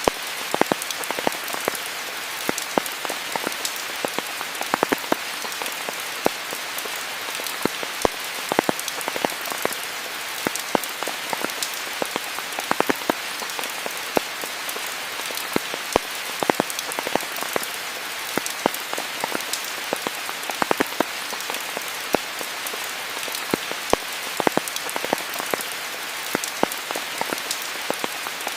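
Steady rain falling: a dense, even hiss of drops, with frequent sharp, irregular taps from individual drops landing close by.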